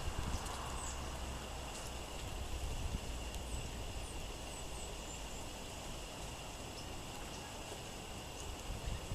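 Gusty wind buffeting the microphone, heaviest in the first couple of seconds, with a few faint, short high chirps from small songbirds.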